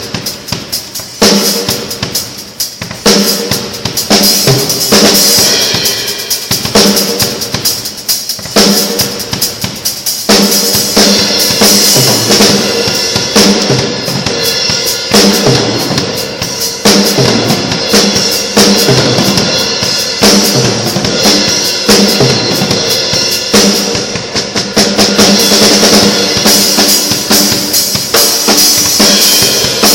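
A drum kit played loudly, with dense, fast strokes throughout.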